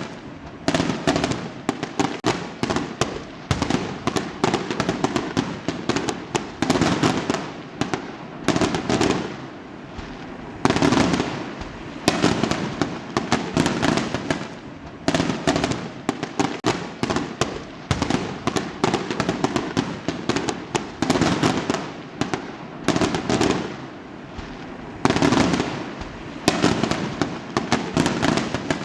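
Fireworks going off in rapid crackling salvos: dense runs of sharp bangs and pops lasting a second or two each, with short lulls between, the loudest salvos about eleven and twenty-five seconds in.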